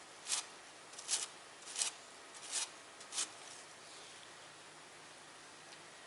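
Spatula scraping grout into the joints of a fireplace: five short scraping strokes, about one every 0.7 seconds, that stop about three seconds in.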